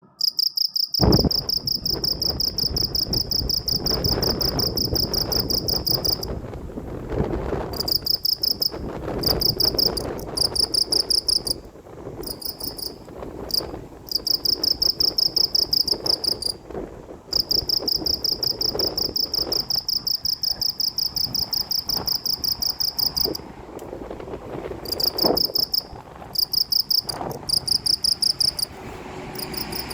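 Insect calling: a high, fast-pulsing trill in runs of a few seconds that break off and start again, over a steady low rumble of background noise.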